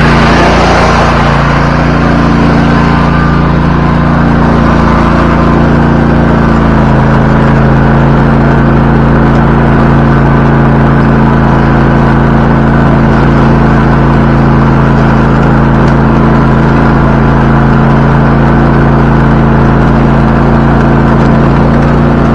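Zero-turn lawnmower engine running loud and steady, its pitch settling slightly lower about six seconds in.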